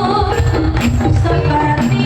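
East Javanese jaranan (kuda lumping) ensemble music: a stepping melody of short held notes over drums and percussion keeping a steady beat.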